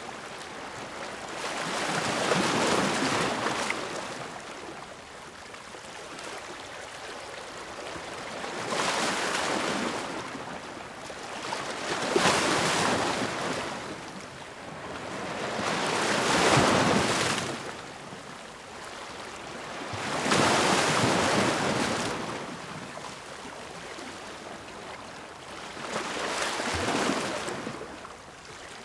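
Ocean waves crashing against rocks, each swelling to a wash of surf and then fading, about every four seconds.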